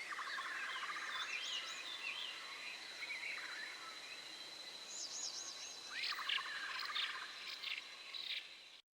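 Wild birds calling in the forest: bursts of rapid chirping trills and wavy warbled notes, over a steady high-pitched tone. The sound cuts off abruptly near the end.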